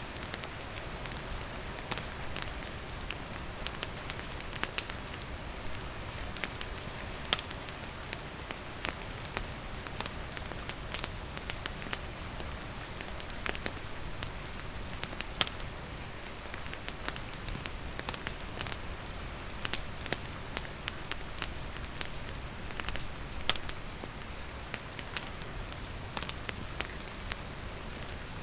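Steady rain with a wood campfire crackling, sharp pops coming at irregular moments throughout.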